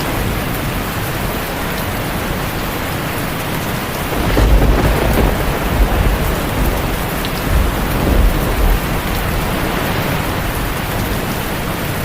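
Steady heavy rain falling, with low rolling thunder rumbling in about a third of the way through and swelling again a little later.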